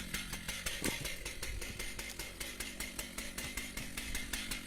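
Stihl MS880 chainsaw's big two-stroke engine idling steadily while it warms up in the cold.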